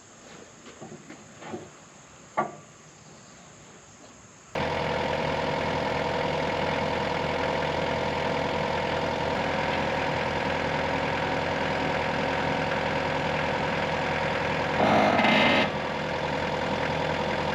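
A few faint knocks, then about four and a half seconds in an engine sound comes in abruptly and runs steadily at an even speed, briefly louder about fifteen seconds in.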